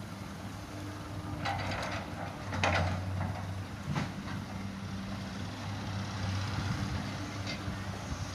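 Heavy diesel engine running steadily, with a few short rushes of noise in the first three seconds and a single sharp knock about four seconds in, as a truck is loaded with soil.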